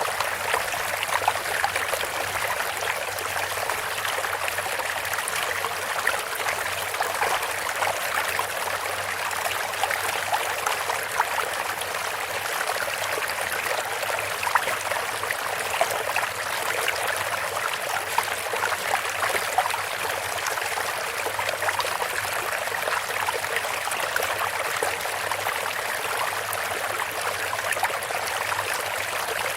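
Water from a bamboo fountain spout trickling and splashing steadily into its basin.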